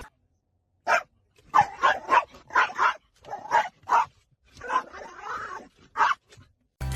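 A dog barking in a string of short barks, about a dozen over five seconds, with brief gaps between them.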